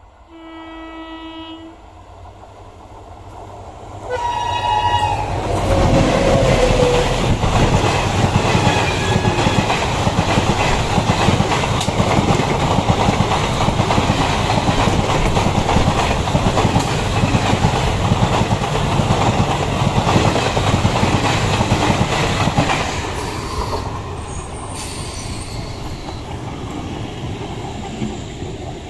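A train horn sounds near the start and again about 4 seconds in, the second dropping in pitch. Then the Teesta Torsa Express passes at speed, its coach wheels clattering loudly over the rails for about 17 seconds. Near the end it is followed by the quieter steady running of an EMU local train.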